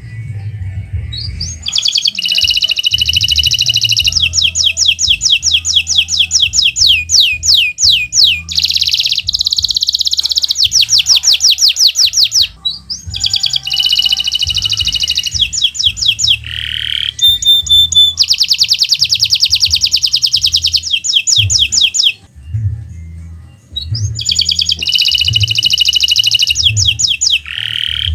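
Kenari Nusantara canary singing: long, loud phrases of rapid trills and rolls, each lasting several seconds, separated by brief pauses, over a low rumble.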